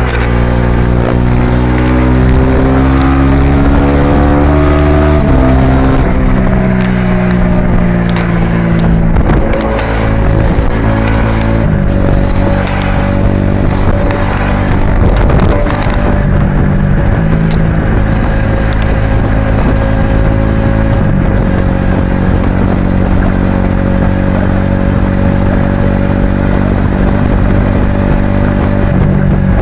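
Suzuki V-Strom SX 250's single-cylinder engine and exhaust under way. The pitch climbs for about five seconds under acceleration, drops sharply at an upshift, then holds mostly steady at cruising revs with a few small changes.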